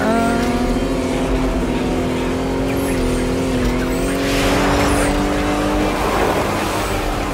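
Cartoon monster truck engine sound effect running steadily with small shifts in pitch, with a rush of skidding noise partway through.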